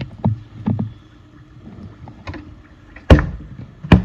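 A series of irregular knocks and thumps, small ones in the first second and two loud ones about three and four seconds in.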